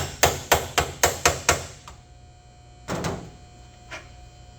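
Quick series of hammer blows on the steel radiator core support of a car, with a heavy weight held behind the panel, about three ringing strikes a second, to knock two pieces of metal back together. The hammering stops about a second and a half in; a single duller thump follows near three seconds.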